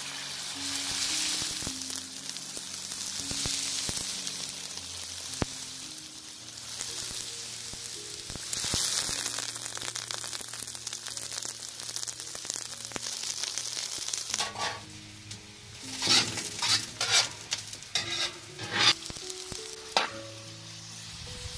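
Julienned carrots sizzling as they fry in hot oil in a large metal pot, stirred with a metal ladle. A run of sharp knocks comes in the last few seconds.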